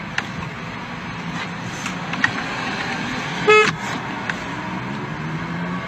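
Steady traffic-like background noise with one short horn honk about three and a half seconds in.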